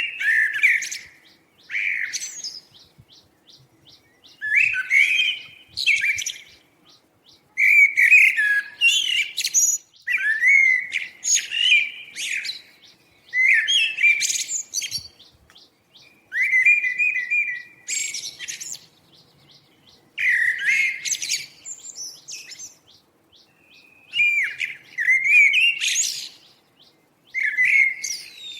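A songbird singing short, warbled phrases, about a dozen of them, each roughly a second long and repeated every two to three seconds.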